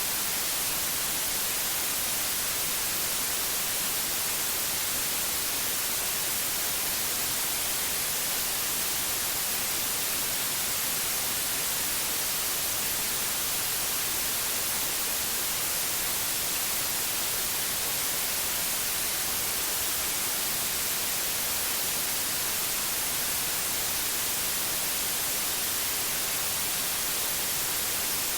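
Steady, unbroken white noise: an even hiss, brightest in the treble, with no changes or events.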